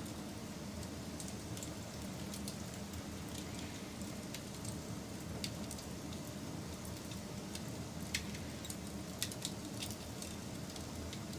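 Campfire burning with a steady low rush, dotted with small crackles and a few sharper pops in the second half.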